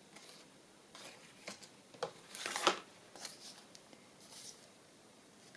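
Paper journal cards and tags being handled and sorted, a few short rustles and taps, the loudest about halfway through.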